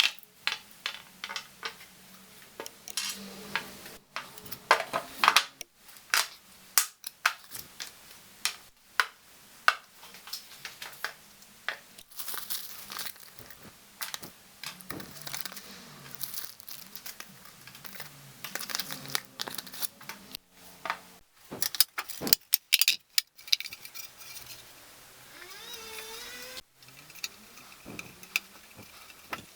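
Engine parts and hand tools being handled on a workbench: a busy run of clicks, clinks and rustling, with a few abrupt breaks and a brief whine near the end.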